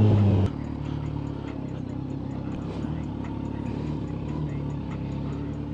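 Kawasaki Z900's inline-four with a Yoshimura exhaust: its engine note drops sharply about half a second in, then it runs steadily and evenly at low revs.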